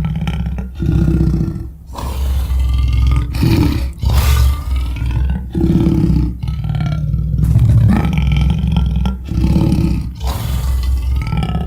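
Custom lion roar and growl sound effects: a quick string of loud, deep roars and growls, each about a second long, one after another with brief breaks between them.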